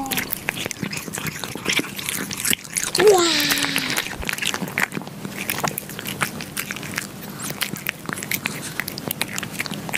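Two cats licking yogurt off a pane of glass: quick, irregular wet tongue clicks and smacks, with one short falling mew about three seconds in.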